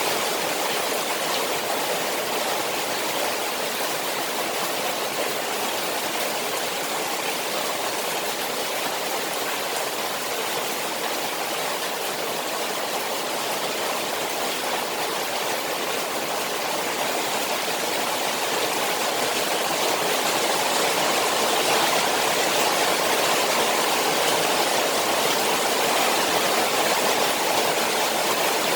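Steady rushing water of a koi pond in the rain, an even hiss without pauses that swells slightly about two-thirds of the way through.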